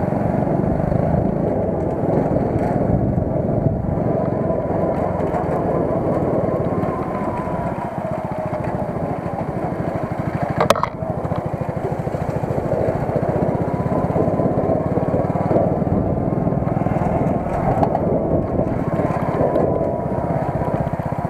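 A small vehicle's engine running steadily while under way, with a faint whine that drifts slowly in pitch and one sharp click about ten seconds in. The vehicle has an unexplained knock that the rider doubts is coming from the gearbox.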